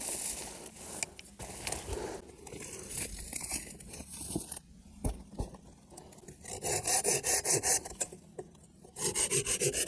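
Hand saw cutting a hard branch still on the tree. Scattered scraping for the first several seconds, then a short run of quick, even saw strokes about two-thirds through, and steady rapid strokes again near the end.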